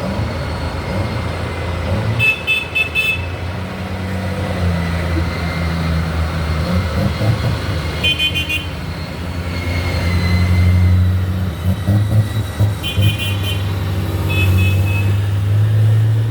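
Tractor engines running as they go past, with short bursts of rapid horn beeps about 2, 8, 13 and 14 seconds in.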